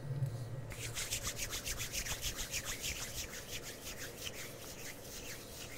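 Quick back-and-forth rubbing strokes, about seven a second, with a dry, hissy scratch. They start just under a second in and fade near the end.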